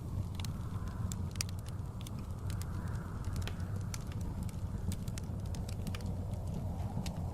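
Wood fire crackling, with sharp irregular pops, over the steady low rush of blizzard wind that swells and fades in gusts.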